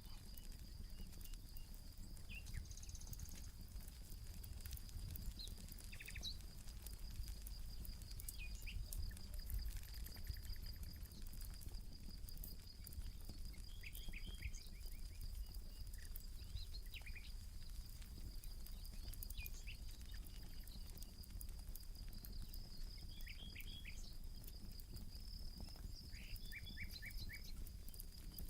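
Campfire crackling with scattered small pops under a low rumble. Birds chirp in short clusters of calls every few seconds over a steady, high, pulsing trill.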